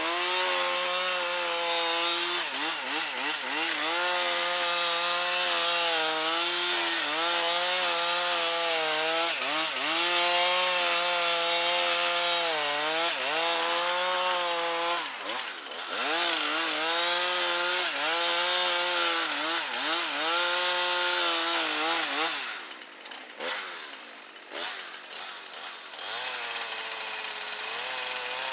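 Two-stroke chainsaw running at high revs while cutting wood, its pitch sagging briefly again and again as the chain loads up in the cut. About 22 seconds in it drops off throttle for a few seconds, then revs up again near the end.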